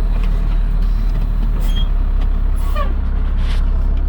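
Cummins diesel engine of a Ford F800 box truck idling steadily with a deep rumble, with a few faint short squeaks and clicks over it.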